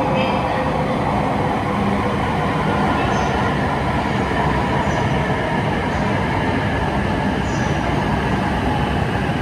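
Tohoku Shinkansen train at the station: a loud, steady rush and rumble of the train, holding level without building or fading.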